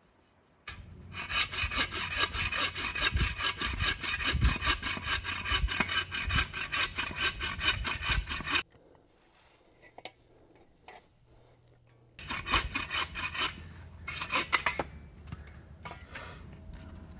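Hand saw cutting through a log to buck firewood: a long run of quick, even back-and-forth strokes, a pause of a few seconds, then a shorter run of strokes.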